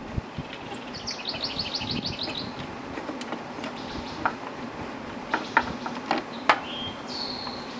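A songbird sings a quick trill of about ten high notes about a second in, and calls again near the end. Several sharp clicks sound between about four and six and a half seconds in, the loudest of them about five and a half and six and a half seconds in.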